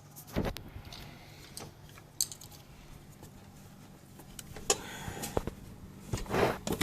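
Hand tools and small metal parts clinking while being handled: scattered light clicks, then a denser run of clatter near the end.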